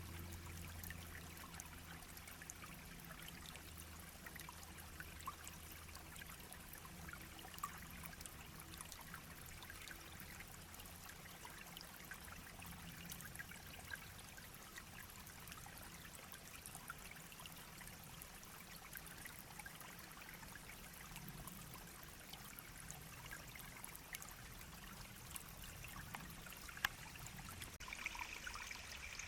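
Small, shallow babbling brook trickling steadily and quietly, with many tiny splashes and drips in the running water.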